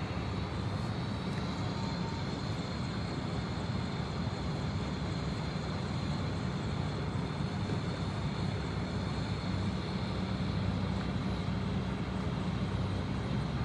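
Medical transport helicopter running steadily: a low engine drone under a steady high turbine whine.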